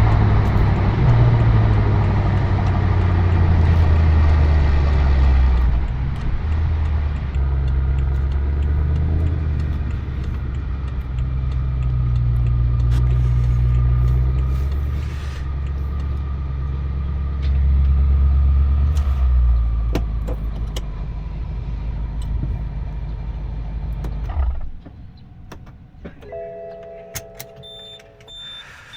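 BMW M6 Gran Coupe's V8 rumbling at low speed and idle through its Akrapovič Evolution Line exhaust, its level rising and falling a few times. The engine is switched off about 25 s in and the rumble stops abruptly. A short electronic chime and a high beep follow near the end.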